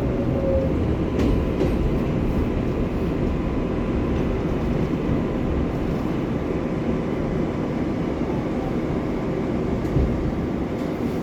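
R188 subway train running on the 7 line: a steady rumble of wheels and traction motors, with a faint falling motor whine at the very start.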